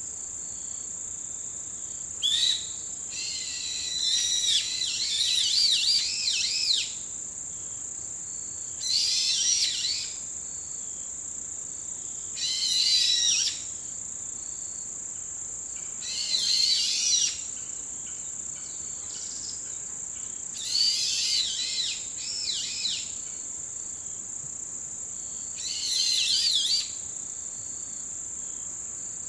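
A songbird singing short phrases of quick, sweeping whistled notes, seven phrases about four seconds apart, over a steady high-pitched drone of autumn insects.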